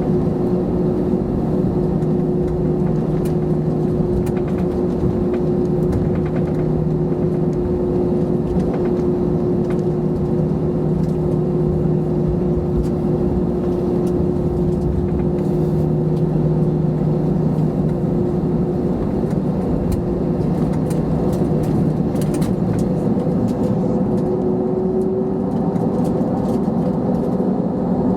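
Airbus A321-211's CFM56 turbofan engines running at steady high power, heard inside the cabin as a loud rushing drone with two steady hum tones. The upper tone rises slightly near the end.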